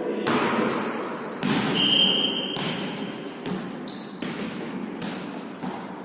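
A volleyball being hit and bouncing in a rally, a string of sharp thuds that echo around a large hall. Two brief high squeaks come in the first couple of seconds.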